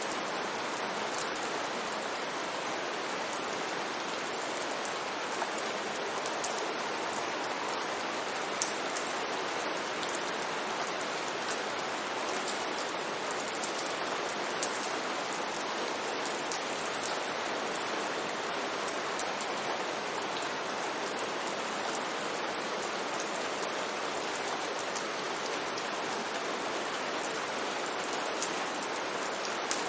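Steady rain falling on a street: a dense, even hiss with scattered sharper drop ticks.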